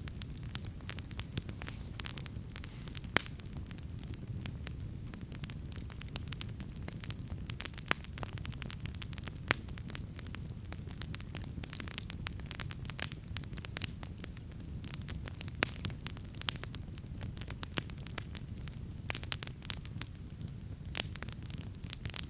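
Wood campfire burning, with a steady low rumble of flames and frequent sharp, irregular crackles and pops from the burning wood.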